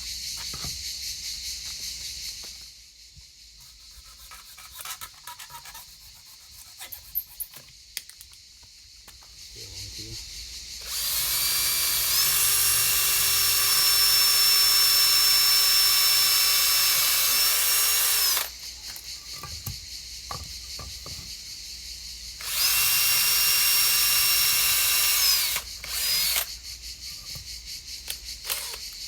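Power drill running in two bursts, a long one of about seven seconds that spins up and holds a steady whine, then a shorter one of about three seconds, with a brief blip after, preceded by light handling clicks of wood and tools.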